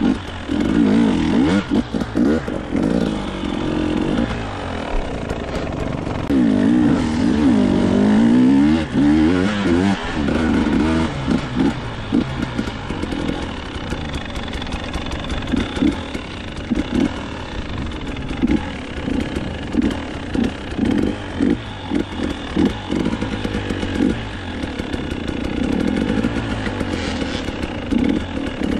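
Dirt bike engine being ridden hard off-road, its revs rising and falling with the throttle. In the second half the throttle comes in short, choppy bursts.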